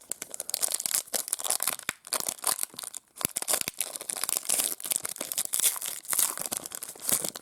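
A baseball card pack's plastic wrapper being torn open and crinkled: a run of dense, crackly rustling with two short breaks.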